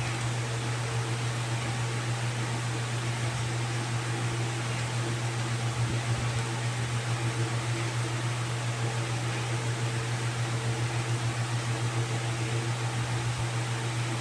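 Steady low mechanical hum with an even hiss over it, like an electric fan running; about halfway through the hum starts to pulse rapidly.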